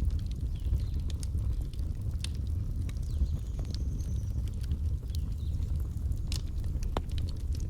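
A fire in a fireplace crackling: a steady low rumble of flames with scattered sharp pops and snaps throughout, and a faint thin whistling hiss in the middle.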